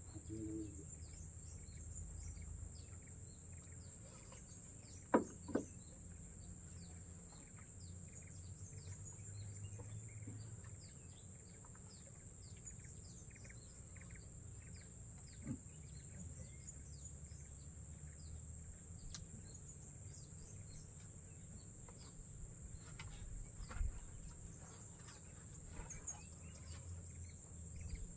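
Forest ambience: a steady high-pitched insect drone with scattered bird chirps, and a few sharp clicks and knocks, the loudest a pair about five seconds in.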